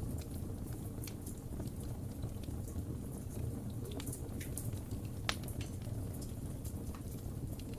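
Wood fire burning in a fireplace: a steady low rumble of flames with irregular sharp crackles and pops, the loudest pop about five seconds in.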